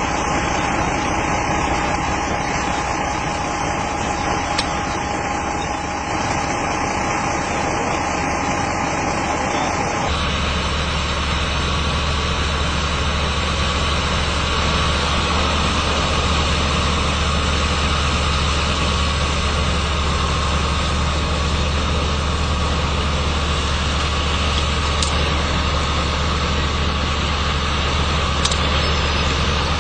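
Steady engine-like idling drone under a constant hiss. About ten seconds in, the tone changes abruptly to a stronger low hum.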